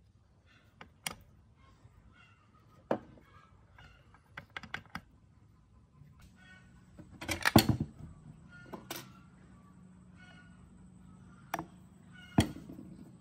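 Irregular sharp clicks and knocks of small hard parts being handled and set down, about a dozen in all, loudest in a quick cluster about halfway through. A faint steady hum sits under the second half.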